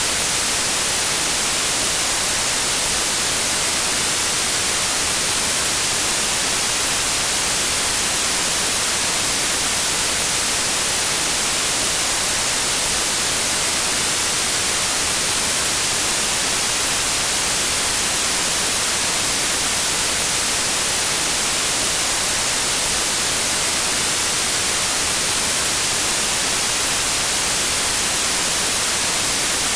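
Steady synthetic white noise, an even hiss strongest in the high frequencies, with no change.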